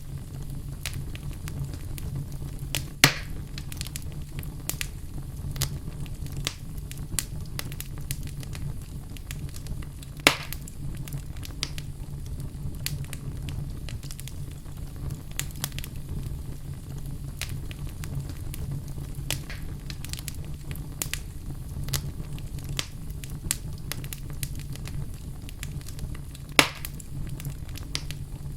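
Wood fire burning in a fireplace, crackling continuously with many small snaps over a low steady rumble. Three louder pops stand out: about three seconds in, about ten seconds in, and near the end.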